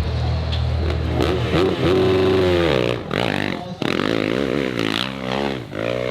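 Hill-climb dirt bike engine revving, its pitch rising and falling several times, over a steady low drone in the first half.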